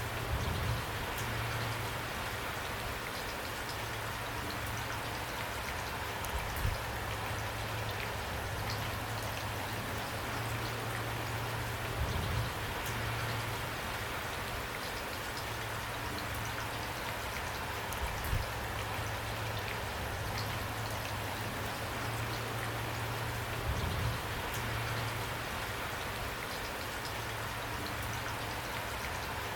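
Steady rain falling, an even hiss of drops with a low steady undertone, and a soft low thump about every six seconds.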